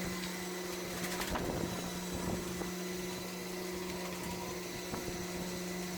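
A motor running steadily at a constant pitch, with a couple of faint knocks about a second and a half in.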